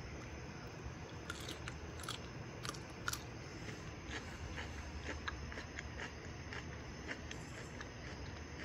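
A person chewing a mouthful of broccoli close to the microphone, with soft, irregular crunches and clicks.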